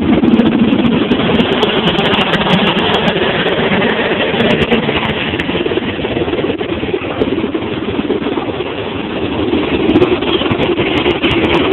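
Helicopter running close by: a loud, steady engine and rotor noise.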